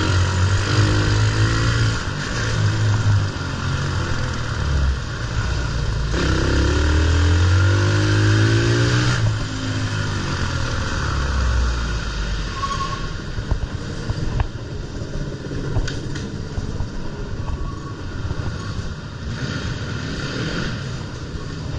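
Pit bike engine revving up and down as it is ridden, with a rising rev about a quarter of the way in. Past the middle the engine drops back and rushing noise with light rattles takes over.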